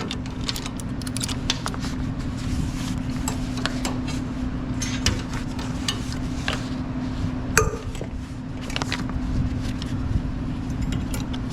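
Scattered light metallic clinks and rattles, irregular, with one sharper clink about seven and a half seconds in, over a steady low hum.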